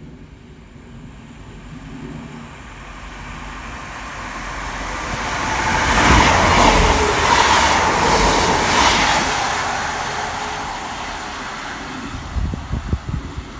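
Diesel multiple unit train passing through the station: its noise builds steadily, is loudest about six to nine seconds in with a steady whine and a tone that drops in pitch as it goes by, then fades away.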